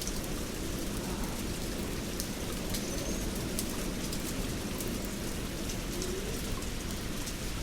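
Steady rain falling, with scattered drops ticking, and a faint bird chirp about three seconds in.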